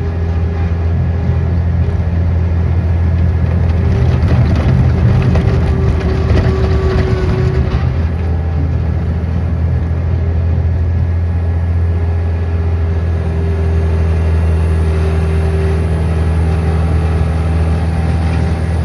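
Engine running steadily, with a rougher, noisier stretch from about four to eight seconds in.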